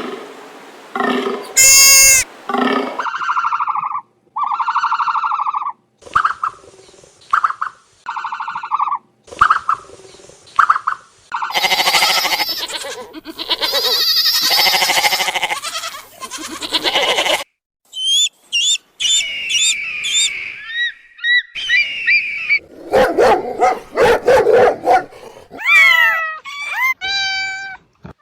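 A run of different animal calls, one after another with short gaps between them. The last few seconds are several cats meowing, each meow falling in pitch.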